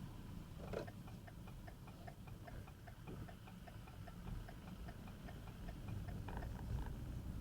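Rapid, even ticking, about five ticks a second, that stops near the end, over the low rumble of a car driving.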